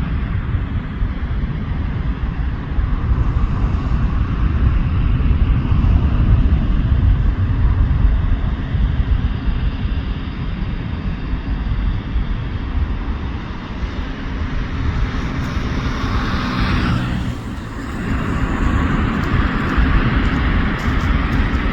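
Airbus A330 freighter's jet engines running loud for takeoff, a steady rumble with a broad roar over it. About three-quarters of the way through, the sound dips briefly and shifts in tone, then returns.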